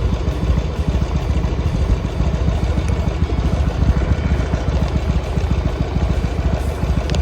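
Harley-Davidson Sportster XL883R's air-cooled 883 cc V-twin idling steadily, with a brief click near the end.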